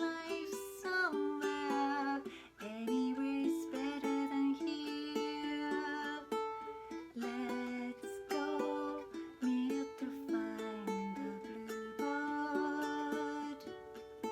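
Ukulele strummed, playing the chords of a song.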